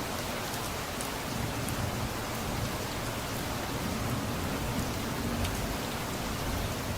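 Steady rain falling on surfaces, with scattered drops ticking. A low rumble of distant thunder swells through the middle.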